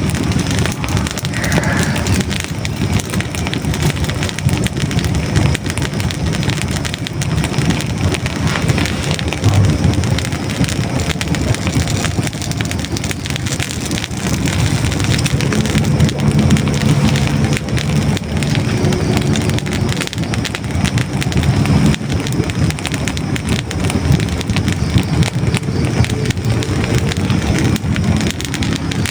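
Hardwood logs burning in a fireplace: a steady low rumble of flame with dense, continuous crackling and pops.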